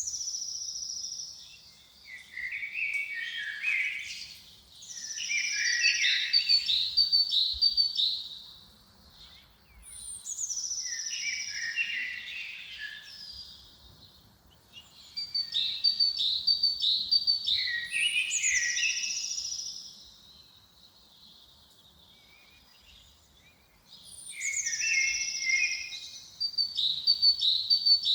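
A songbird singing the same short phrase over and over, every few seconds. Each phrase opens with a high, thin note and then breaks into a run of quicker, lower notes, with quieter pauses between the phrases.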